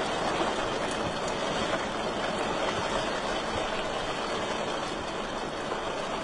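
Wood fire crackling in a fireplace: a steady rushing hiss with a few faint pops in the first second or so.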